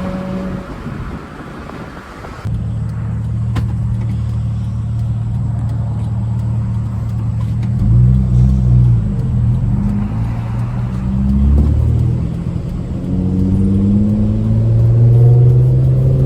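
Straight-piped V6 Honda Accord exhaust while driving: quieter at first, then suddenly louder under throttle at about two and a half seconds, and rising in pitch near the end as the car accelerates.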